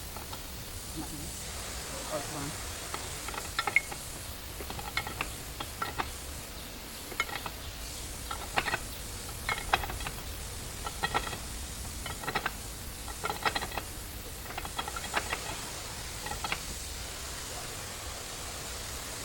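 Irregular light metallic clinks and taps, coming in small clusters about once a second, over a steady low hum and hiss: metal parts or hand tools being handled in a workshop.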